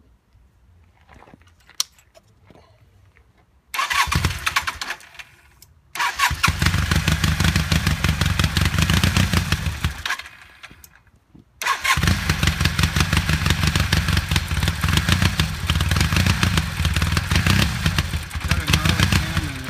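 1982 Honda CM450's air-cooled parallel-twin engine on its first start after conversion from carburetors to an Ecotrons fuel-injection kit. It fires briefly and dies, runs for about four seconds and dies again, then catches about twelve seconds in and keeps running.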